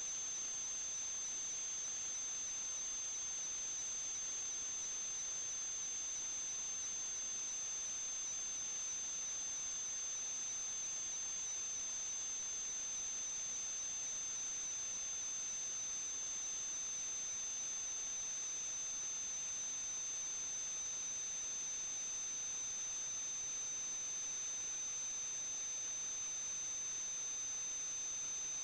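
A steady high-pitched electronic whine over a constant hiss, unchanging throughout: electrical noise on the recording rather than any sound from the work.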